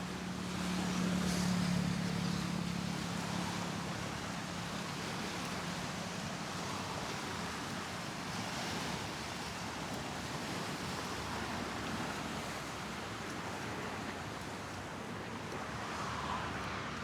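Steady outdoor wash of road traffic and wind. A low engine hum swells about a second in and fades over the next few seconds.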